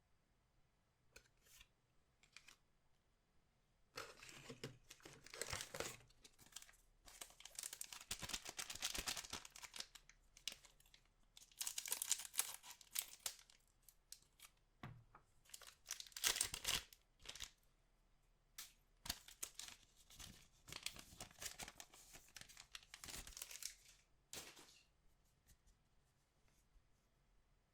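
Packaging for trading-card packs being torn open and crinkled, in several rustling bursts with short pauses between them, after a few faint clicks at the start.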